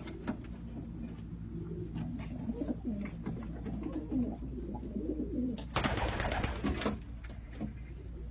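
Domestic pigeons cooing in a loft, with a brief rustle about six seconds in.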